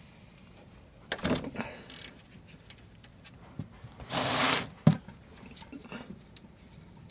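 Wrench working on a car's 14 mm oil drain plug: scattered light clicks and scrapes, with a short rasping burst about four seconds in, followed by a sharp click.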